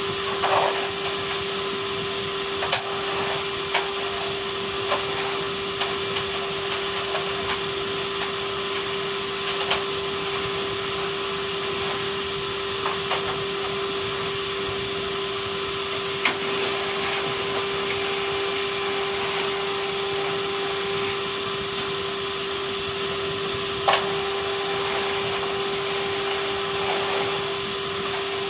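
Vacuum cleaner running steadily with a constant hum, and a few short knocks as the nozzle bumps against surfaces.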